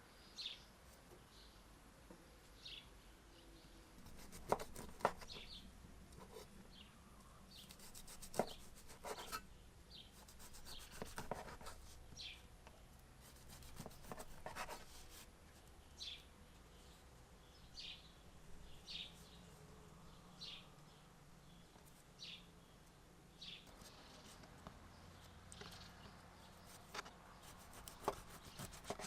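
A small bird chirping, short high chirps about once a second, with scattered clicks and scraping sounds in between.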